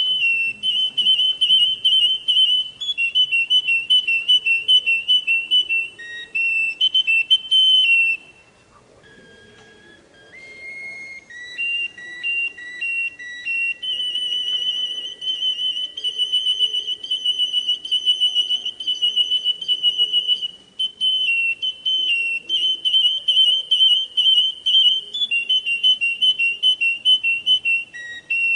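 Russian canary singing: long, rapid trills and rolls on a high, whistle-like pitch, broken about eight seconds in by a few seconds of quieter, softer notes before the long rolls resume.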